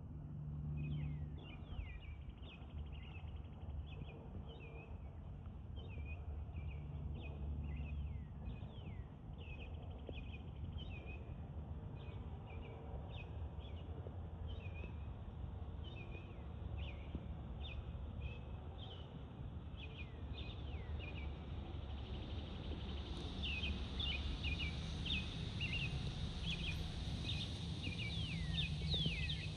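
Small birds chirping over and over in short, mostly downward-sweeping notes, above a steady low rumble. The chirps are louder and brighter in the last few seconds.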